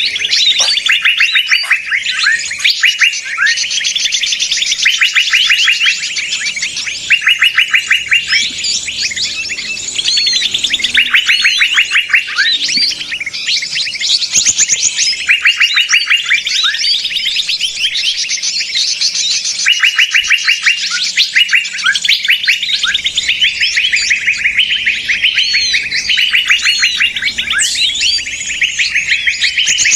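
Many small songbirds calling noisily at once in a dense, unbroken chatter of rapid chirps and trills: a recorded 'burung ribut' lure call, played to draw small birds in for trapping.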